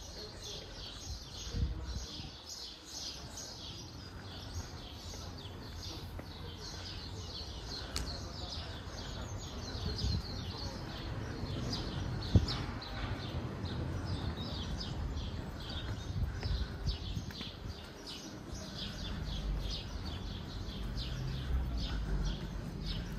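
Many birds chirping densely, several short chirps a second, over a low background rumble. A single sharp knock sounds about twelve seconds in.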